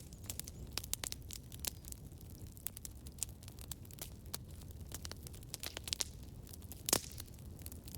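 Campfire crackling: a steady low rumble of burning wood under frequent small irregular pops and snaps, with one louder pop about seven seconds in.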